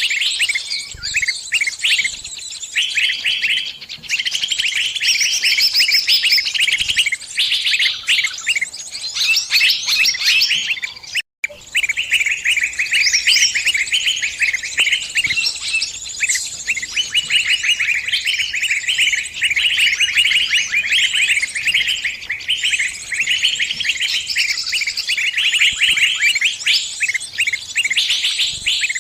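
Bird distress calls: rapid, high-pitched chirping, repeated without pause, the cry of a trapped bird calling its flock for help. The sound cuts out for a split second about eleven seconds in.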